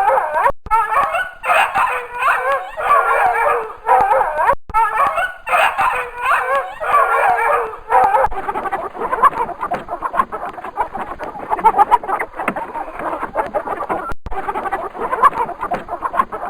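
Animal calls from several animals at once: dense, overlapping, wavering calls, with a hard cut to a different busier, chattering set of calls about 8 seconds in.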